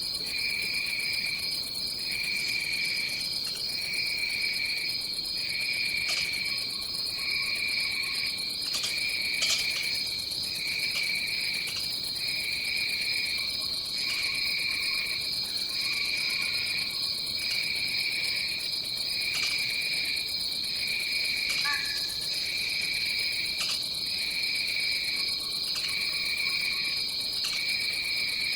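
Tropical rainforest insect chorus: a steady high-pitched drone with a second, lower insect trilling in phrases that break off about every two seconds. A few faint short calls are heard, and one sharp click about ten seconds in.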